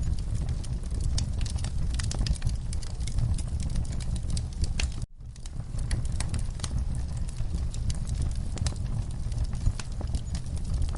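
Wood fire crackling, with many sharp pops and snaps over a low rumble of burning. About halfway through the sound cuts out for a moment and then swells back in.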